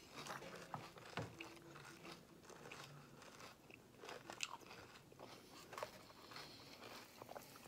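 Faint crunching and chewing of cereal, with scattered sharp clicks of plastic spoons against the bowls.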